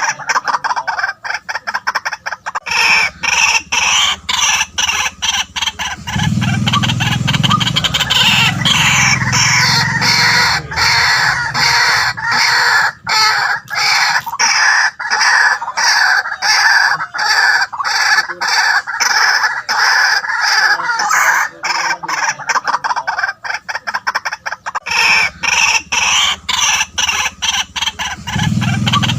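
White-breasted waterhen calling: a loud, unbroken run of short repeated notes, several a second.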